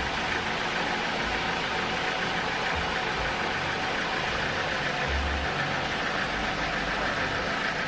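Sawmill machinery running steadily, a constant engine-like drone with a faint steady whine above it.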